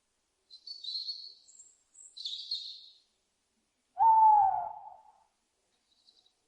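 An owl gives one loud hoot about four seconds in, lasting about a second and dropping slightly in pitch. Before it come two shorter, high-pitched thin calls.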